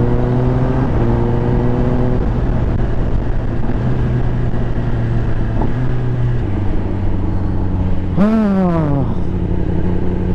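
Kawasaki ZX-10R's inline-four engine running steadily at cruising revs under a constant haze of wind noise, its pitch stepping down slightly about six seconds in. About eight seconds in, a short sound slides down in pitch over a second.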